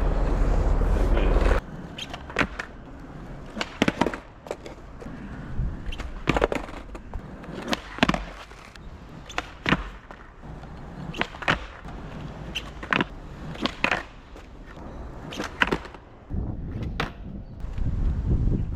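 Skateboard on concrete: hard wheels rolling, with about a dozen sharp clacks of the deck and tail striking the ground during backside 180 attempts, and a louder rolling rumble near the end. A loud low rumble fills the first second and a half and cuts off suddenly.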